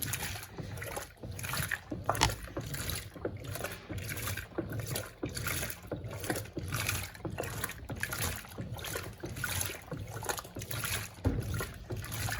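Electrolux Turbo Compacta LTC07 washing machine's agitator churning water and clothes during a rinse with fabric softener, sloshing in regular, repeating surges over a low steady motor hum.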